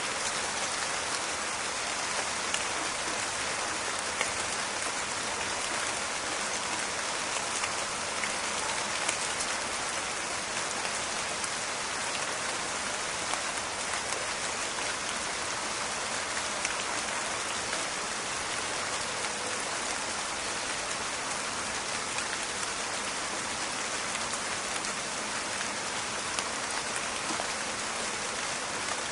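Steady rain falling in a forest, a dense hiss of drops with many small crackling impacts on leaves.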